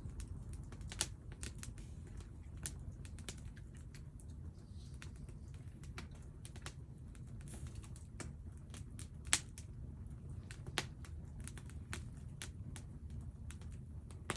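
Burning firewood crackling: irregular sharp pops and snaps, a few much louder than the rest, over a low steady rumble.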